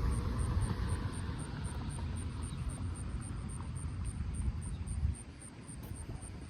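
Low rumble of a passing vehicle fading away, dropping off sharply about five seconds in.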